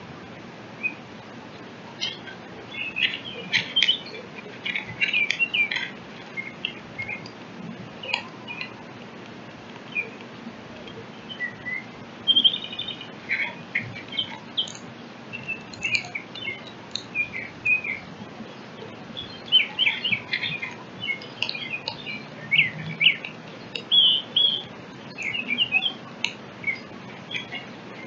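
Small songbirds chirping and twittering: many short calls in scattered bursts, busiest in the last third, with a few brief clear whistles among them.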